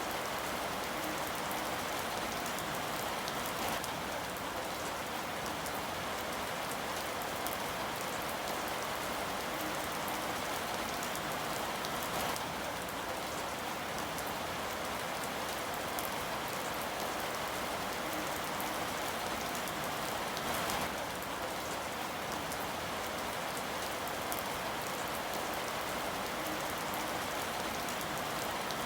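Steady rain falling, a continuous even hiss with scattered drops pattering on a surface.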